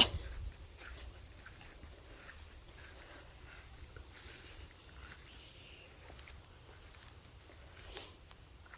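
Crickets chirring steadily at a high pitch, with faint footsteps and small rustles.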